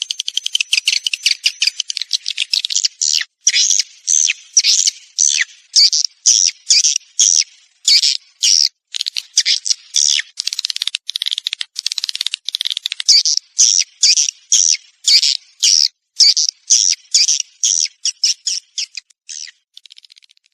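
Edible-nest swiftlet calls played as a house-lure recording: rapid, high chattering twitters in short bursts about twice a second. They fade out near the end.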